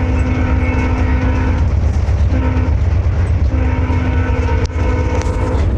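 Train running with a steady low rumble while its horn sounds three times: a long blast ending about one and a half seconds in, a short blast just after two seconds, and another long blast from about three and a half seconds to near the end.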